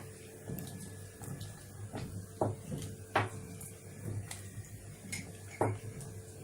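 A spoon stirring rice in a cooking pot, giving a few sharp knocks against the pot, over a low steady hum.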